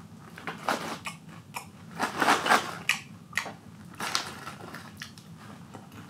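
Popcorn being chewed in irregular crunches, along with the rustle of the snack bag as a hand reaches into it.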